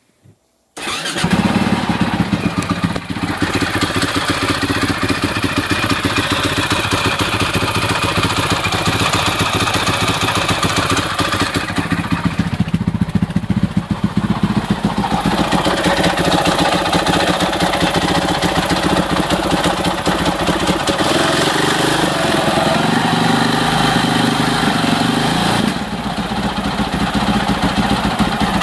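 2006 Husaberg FE650 single-cylinder four-stroke engine catching about a second in and then running, with its speed shifting a few times. It carries a ticking, knocking mechanical racket that is still there after a new cam chain, new tensioner and dual valve springs were fitted.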